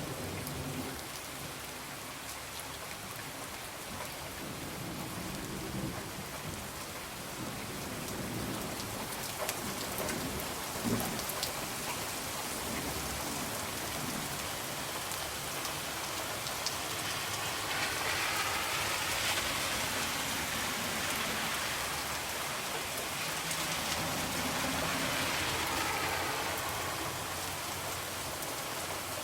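Steady rain falling on a window, with low rolling rumbles of thunder and a swell of heavier rain in the second half.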